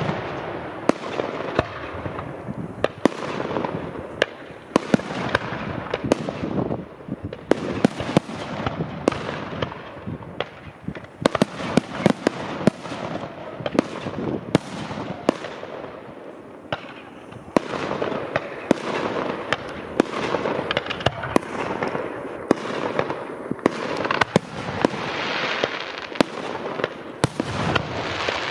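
Fireworks and firecrackers going off from many directions at once: a dense, irregular series of sharp bangs, several a second, over a continuous crackling rumble.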